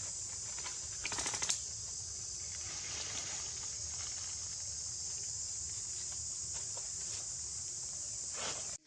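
Steady high-pitched insect chorus of a forest, buzzing without a break, with a brief rustle about a second in; it cuts off abruptly near the end.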